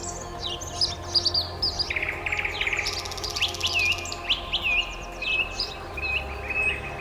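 Several small birds chirping and twittering at once: many short, quick, overlapping chirps and whistles, with a fast repeated trill near the end. A soft steady low hum runs underneath.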